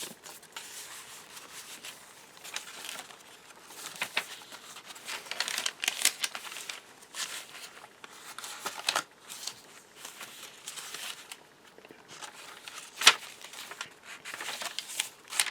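Paper rustling and crinkling as pages of a chipboard-covered paper journal are turned and cards are slid in and out of its pockets, with scattered sharp paper snaps and taps, the loudest about 13 seconds in.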